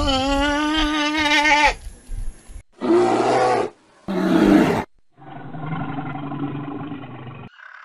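An animal's long, wavering pitched call fades out in the first two seconds. Then a brown bear growls: two short roars about three and four seconds in, followed by a longer, lower growl.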